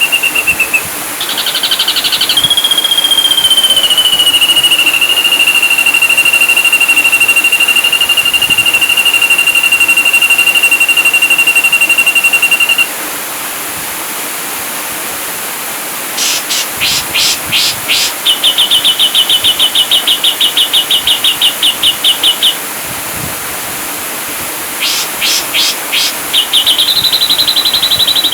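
Ashy drongo song from a bird-training recording: a long, high trilled whistle held for about twelve seconds, then, after a pause, bursts of sharp downward-swept notes alternating with fast, even trills. A steady hiss runs underneath.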